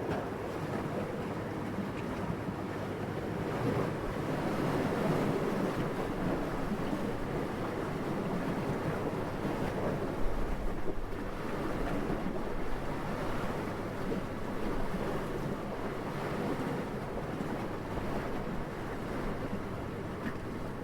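Steady wind that swells and eases in slow gusts, with a brief low rumble about halfway through.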